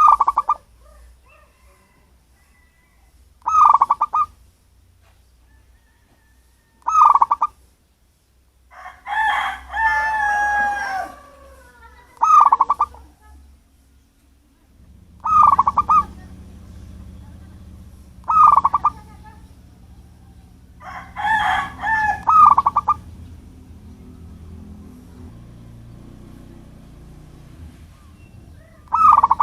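Zebra dove (perkutut) cooing: short trilled calls repeated every three to four seconds, about eight in all. About a third of the way in, and again past two-thirds, a longer, wavering call from another bird overlaps, and a low steady hum comes in about halfway.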